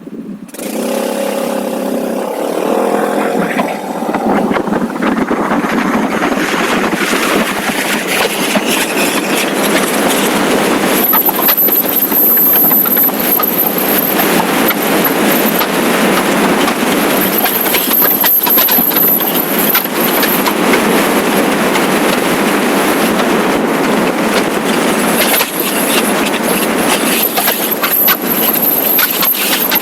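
Motorcycle on the move: the engine note is audible as it pulls away, then wind noise rushing over the microphone grows to dominate, with a faint high whine coming and going.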